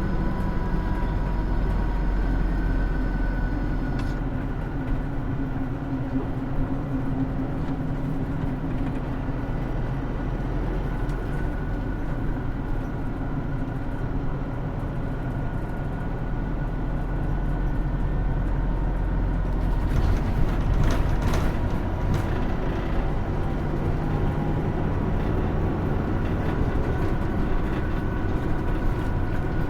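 Hino Rainbow II diesel route bus heard from inside the cabin while under way: the engine runs steadily under road and tyre noise, its note drifting up and down with road speed. A short cluster of knocks and rattles comes about twenty seconds in.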